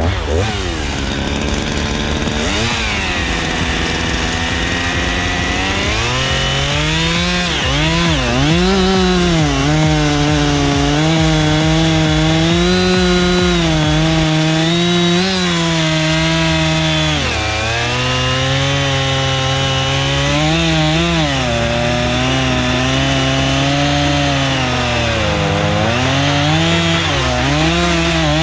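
Two-stroke chainsaw running at high revs and cutting wood, its pitch dipping and recovering again and again as the chain bites, with a brief drop in pitch about two-thirds of the way through.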